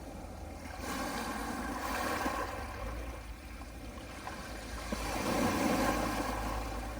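Small sea waves washing up a pebble beach in two surges, one about a second in and a louder one around five seconds, over a steady low rumble.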